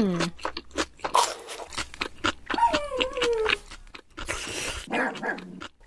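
Added foley sound effects: a run of crisp crunches and clicks, with a whine-like tone sliding down in pitch about halfway through and a short hiss just after.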